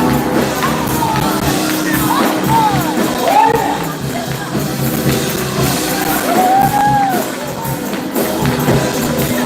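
Live church music: voices singing and shouting over a band, with held instrument notes and a steady beat.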